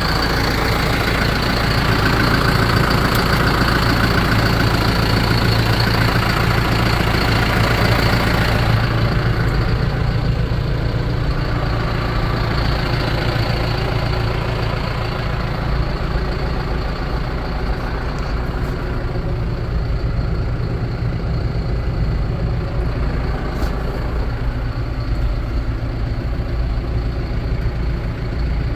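John Deere 6420 tractor's four-cylinder diesel engine running steadily. About nine seconds in the sound turns duller and a little quieter, then goes on at a steady idle.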